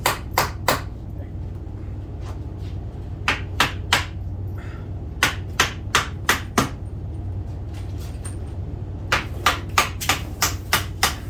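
Hammer blows on the wooden trim around a door, in runs of three to five sharp strikes at about three a second, with a steady low hum underneath.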